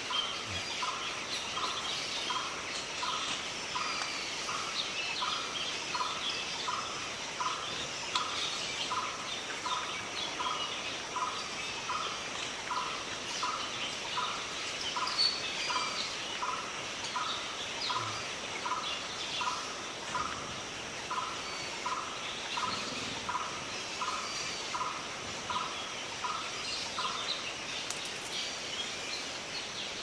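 Jungle birdsong: one bird repeats a short call at a steady rhythm, over and over, pausing near the end, while other birds chirp at higher pitches over a steady high-pitched drone.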